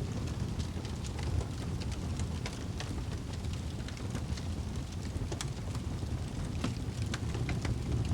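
Wood fire burning in a fireplace: a steady low rush of flame with irregular sharp crackles and pops from the burning wood.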